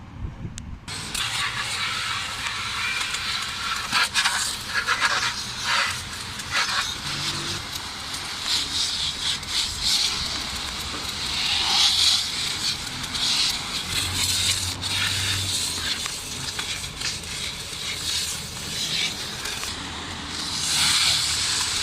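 Pressurised water spray hissing against a motorbike engine. The hiss starts about a second in and swells and drops in level.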